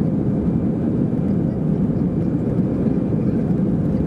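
Airbus A319 airliner's jet engines giving a steady low rumble, with no change in level.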